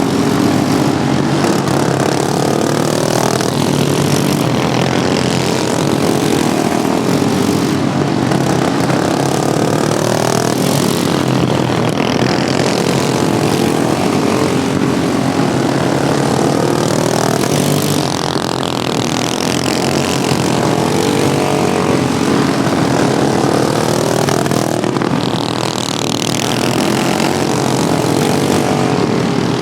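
Several modified Wheel Horse racing lawnmowers running flat out. Their engines' pitch sweeps up and down again and again, every few seconds, as the mowers pass.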